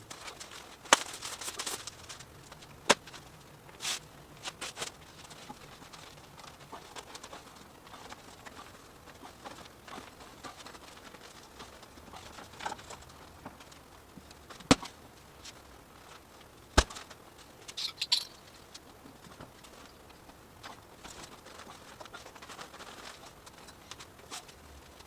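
Garage door insulation being fitted by hand: intermittent rustling, with four sharp clicks or knocks spread through.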